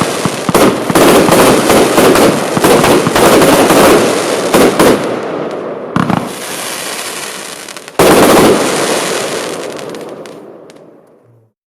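Lesli Bloodhound compound firework cake firing its last shots: a rapid string of sharp reports for about five seconds, then a lull and one final loud shot about eight seconds in that dies away.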